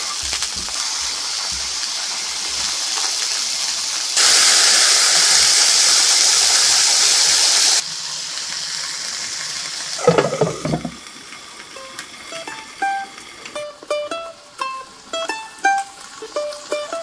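Stuffed button mushrooms sizzling in a frying pan, a steady hiss that is louder for a few seconds in the middle. From about eleven seconds in, light music of short plucked notes takes over.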